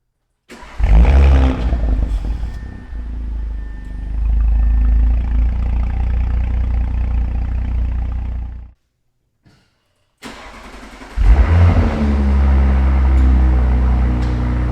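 2018 Audi S4's turbocharged V6, breathing through an Armytrix aftermarket exhaust with the stock downpipe, started twice: each time the starter cranks briefly, the engine catches with a loud rev flare, then settles to a steady idle. The first run cuts off abruptly about nine seconds in, and the second start follows about a second and a half later.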